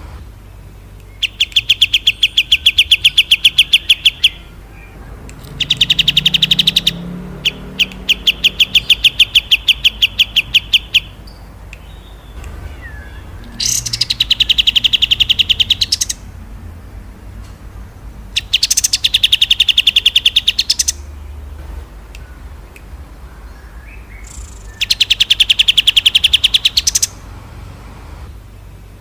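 Small songbird repeating a fast rattling trill, a 'roll', six bursts of about two to three seconds each with short pauses between.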